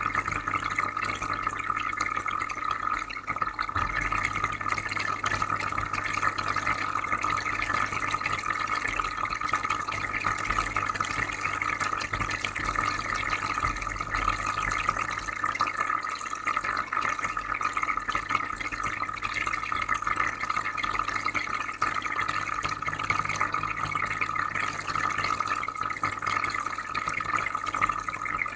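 Freshwater aquarium filter running with a steady bubbling and trickling of water and a low steady hum underneath.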